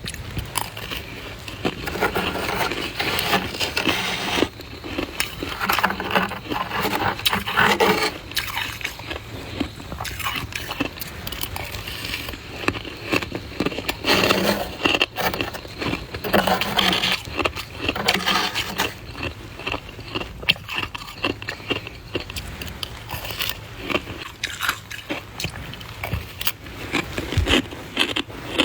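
A person biting and chewing soft white ice close to the microphone: a continuous run of crisp crunches and scraping bites, with louder clusters every second or two.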